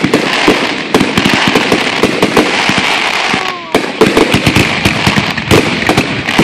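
Fireworks going off in rapid succession: a dense, unbroken run of bangs and crackles, with a falling whistle about three and a half seconds in.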